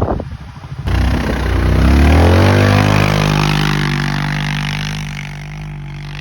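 Off-road vehicle's engine suddenly revved hard about a second in, its pitch climbing for the next two seconds and then held high and steady.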